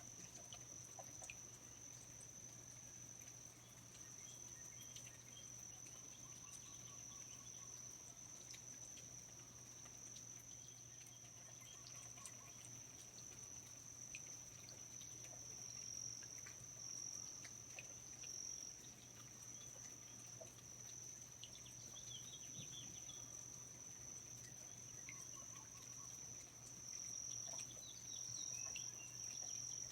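Faint rainforest ambience: a steady high-pitched insect trill, with scattered short chirps and clicks over a low steady hum.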